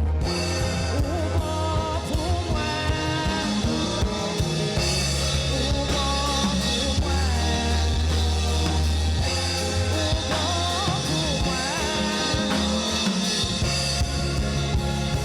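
Live church band playing a worship song: singing over a drum kit with a heavy, steady bass line and cymbals.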